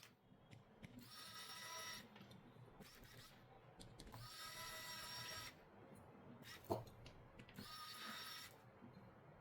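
A small electric tool whirring in three short bursts of about a second each, with a faint steady whine, and a single sharp click between the second and third bursts.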